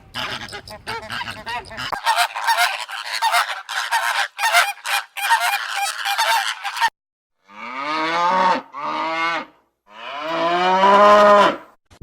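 Geese honking and cackling in a dense flock chorus for several seconds, then three separate long, drawn-out calls near the end, the last the loudest.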